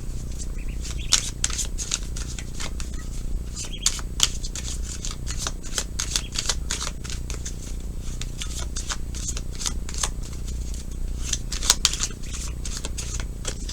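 A tarot deck being shuffled by hand: an irregular run of crisp card clicks and slaps, with a steady low hum underneath.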